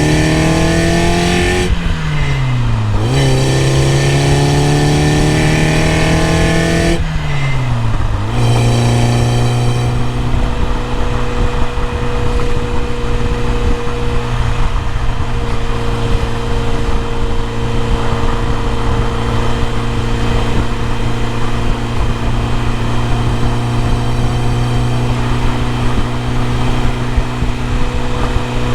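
BMW E30 M3's four-cylinder engine pulling hard with revs climbing, with two upshifts where the pitch drops sharply about two and seven seconds in. It then settles to a steady cruise at constant revs, with road noise underneath.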